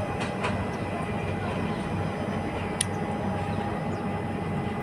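Steady running rumble of a moving Indian Railways passenger train heard from inside the coach, with a faint steady tone over it and one brief sharp tick about three seconds in.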